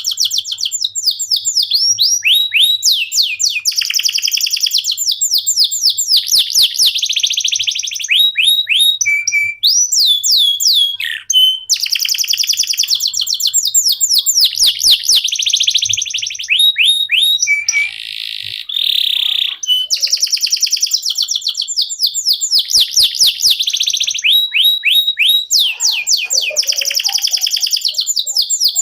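Canary singing a long, continuous song of rapid trills, each made of quickly repeated falling high notes, with a harsher rasping phrase past the middle and only brief pauses between phrases.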